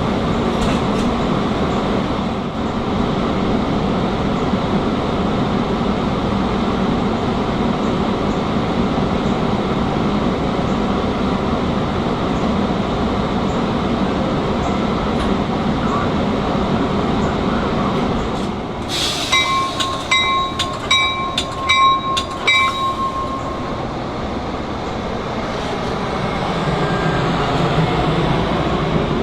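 A train rolling past on the tracks with a steady rumble. About two thirds of the way through, a high-pitched ringing pulses for a few seconds.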